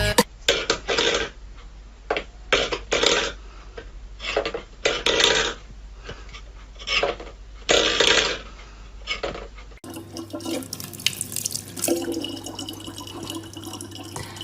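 Water splashing in irregular short bursts, then, after a cut, a tap running steadily.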